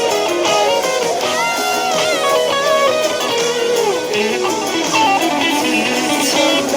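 Electric guitar playing the song's melody, with notes bent up and down, over other sustained guitar notes.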